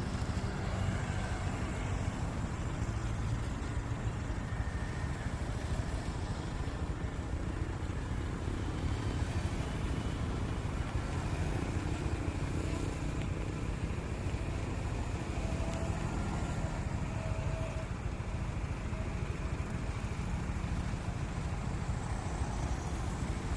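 Motorcycle riding along a road: steady engine and road noise with no changes in speed.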